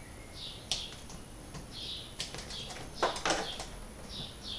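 Small birds chirping repeatedly in the background, with a few sharp clicks of hand tools about a second, two seconds and three seconds in.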